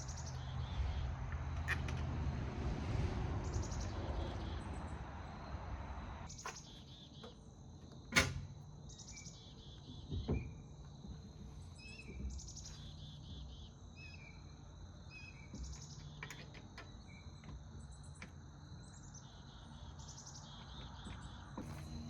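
Outdoor ambience of insects trilling steadily and birds chirping, with a low rumble fading out about six seconds in. Two sharp metallic clacks from tire-change work on the car, one about eight seconds in and another two seconds later.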